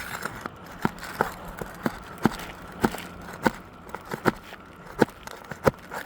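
A flat bar knocking against an old three-tab asphalt shingle and its roofing nails as it is worked under the shingle to pry the nails loose. The knocks are sharp and short, about ten of them, unevenly spaced.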